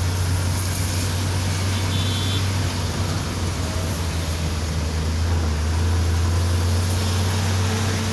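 A car driving on a rain-wet road, heard from inside the cabin: a steady low engine and road drone with an even tyre-and-water hiss over it.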